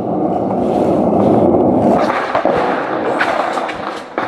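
Skateboard wheels rolling on pavement, a steady grinding roll that is loudest in the first two seconds and then fades, with a few sharp clacks in the second half.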